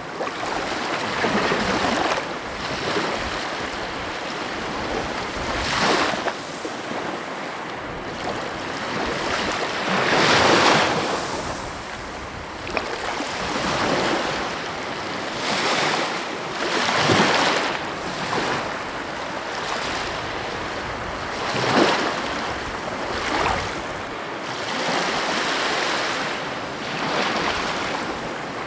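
Sea waves breaking and washing on a shore, a steady rush of surf with a swell every few seconds.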